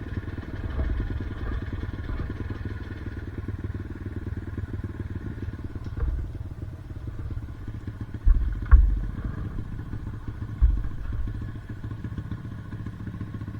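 Off-road enduro motorcycle engine running steadily at low revs, with a few loud thumps around the middle.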